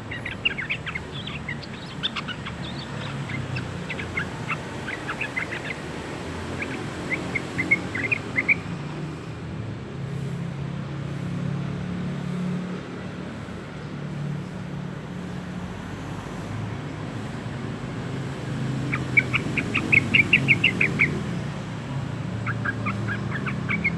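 A juvenile yellow-vented bulbul (trucukan), about two months old, practising its song in bursts of quick, high chattering notes, with a long pause in the middle. A steady low hum runs underneath.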